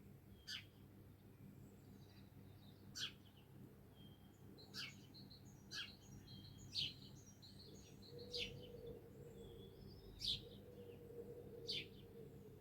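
Songbirds chirping: short, sharp calls every second or two, with softer twittering between them, over a faint low background noise.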